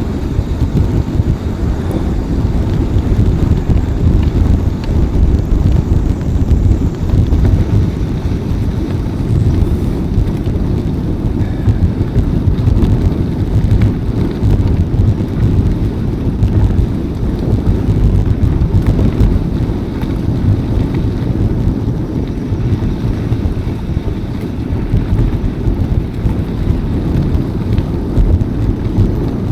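Wind buffeting the microphone during a bicycle ride: a steady, loud low rumble with no distinct events.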